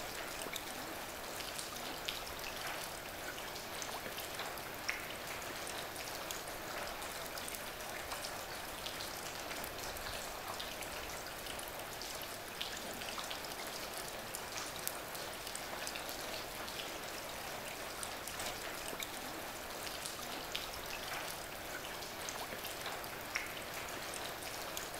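Steady rain falling: an even hiss with scattered short ticks of individual drops.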